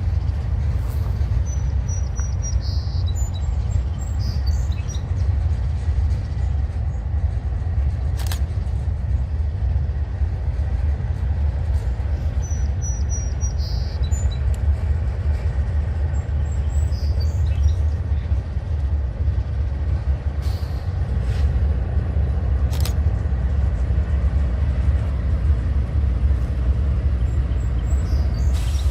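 Train rolling past with a steady low rumble, with a few faint high squeaks and sharp clicks.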